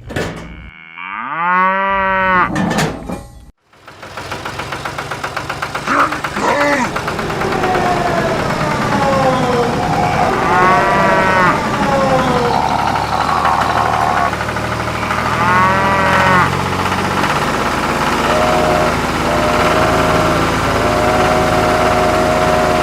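Cattle mooing, three drawn-out calls, over a steady engine running that starts about four seconds in.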